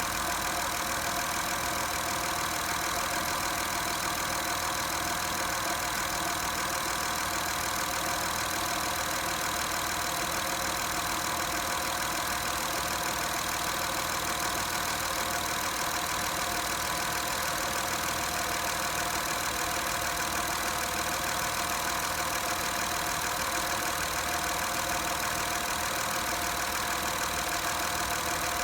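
Acura TL engine running steadily at idle, with the unchanging hum and steady tones of the strange noise the owner is recording.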